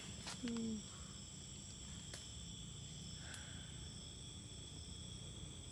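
Night insects, crickets among them, trilling steadily in several high-pitched tones at once.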